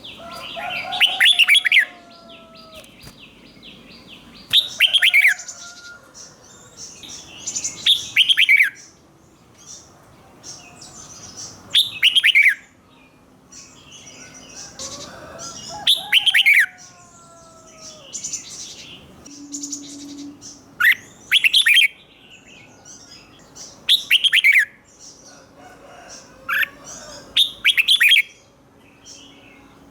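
Red-whiskered bulbul singing: a loud phrase about every four seconds, each a quick run of sharp, falling whistled notes, with softer chirps in between.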